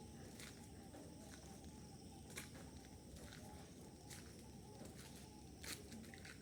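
Faint background of a laying-hen house: a steady low hum under a steady high-pitched chirring, with a few scattered sharp clicks, the loudest near the end.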